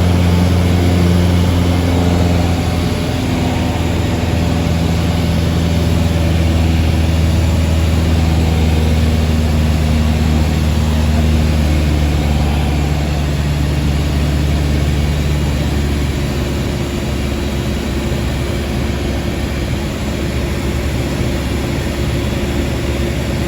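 Light propeller aircraft engine droning steadily, its pitch stepping slightly lower about two and a half seconds in and again about two thirds of the way through, as the engine is throttled back.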